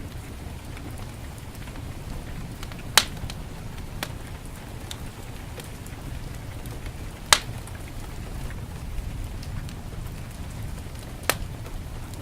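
Steady heavy rain, with a fireplace fire crackling over it: three sharp loud pops, about 3, 7 and 11 seconds in, and fainter ticks between.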